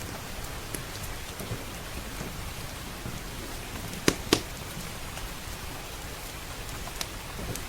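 Steady rain pattering on the roof and windows, with a few sharp crackling pops from a wood fire in the fireplace, the two loudest close together about halfway through.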